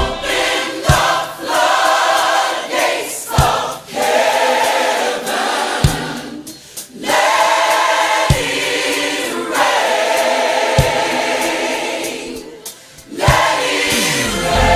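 Gospel choir singing long held chords in phrases, with the band dropped back to a single low beat about every two and a half seconds; the full band with bass comes back in at the very end.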